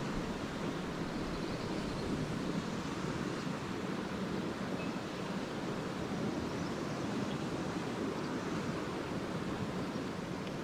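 Lake waves washing steadily onto a beach, a continuous even surf wash with no distinct breaks.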